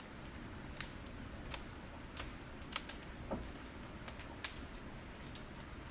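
Firewood burning and crackling: irregular sharp pops and snaps over a steady low hiss.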